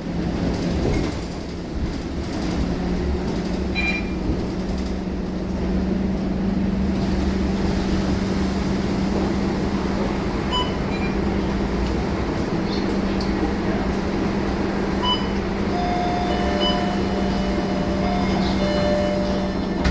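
Scania K230UB single-deck bus running, its diesel engine and drivetrain giving a steady low rumble with a hum that strengthens slightly about six seconds in.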